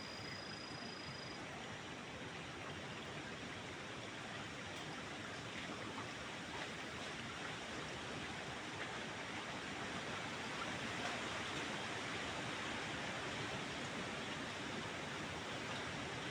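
Steady rush of a flowing forest stream, swelling slightly partway through. A brief thin high whistle sounds at the very start.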